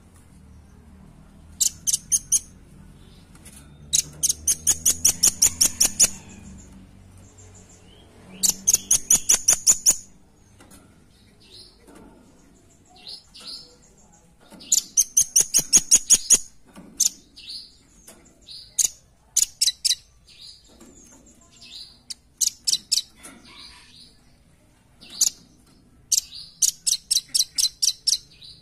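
Velvet-fronted nuthatch (rambatan paruh merah) calling in rapid trills of sharp, high notes, several a second, in bursts of one to two seconds with short pauses between them.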